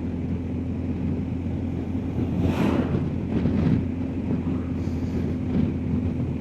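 BMW R1250GS Adventure's boxer-twin engine running steadily on the road, with wind noise. A brief rush of noise comes about two and a half seconds in.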